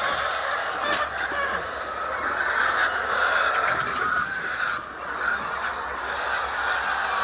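A flock of egg-laying chickens clucking and calling all at once, many overlapping voices in a steady din.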